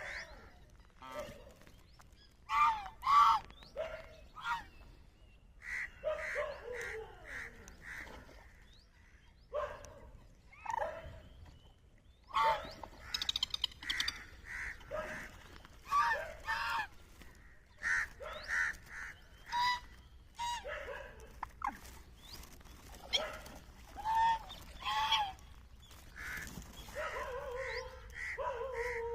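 Waterfowl calling: short pitched calls come in quick runs of several notes, repeated in irregular bouts with brief pauses between them.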